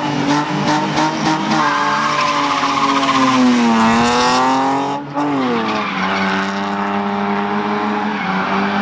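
A drift car's engine held at high revs with tyres squealing. The revs sag and climb again, then drop about five seconds in and hold steady at a lower pitch.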